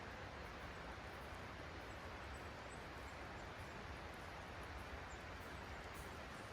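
Faint, steady outdoor ambience: an even hiss over a low rumble, with no distinct events.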